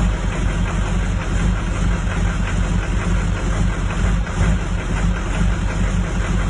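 2004 Duramax 6.6-litre V8 turbodiesel idling roughly, its running uneven and wavering rather than smooth.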